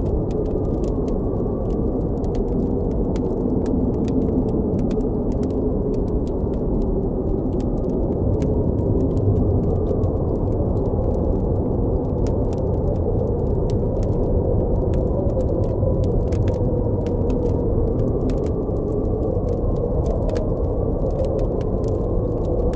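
Steady, low blizzard wind with a faint wavering howl, under frequent sharp crackles and pops from a campfire.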